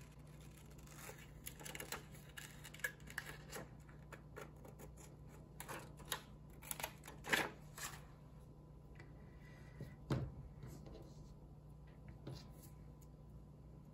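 Short snips and rustles of thin copy paper being cut and handled in a run of small clicks, then a single knock about ten seconds in.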